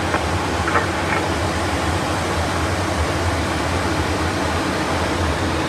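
Steady cockpit noise of an aircraft in flight: rushing air and engine drone over a low hum.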